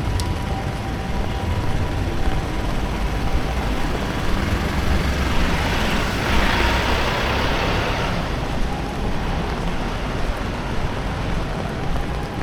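A motor vehicle passing on a wet street, its tyre hiss swelling and fading about halfway through, over steady rain and a low traffic rumble.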